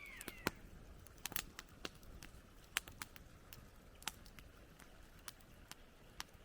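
Campfire crackling: sharp, irregular pops and snaps of burning wood, about two a second, over a low steady hiss. A short falling chirp at the very start.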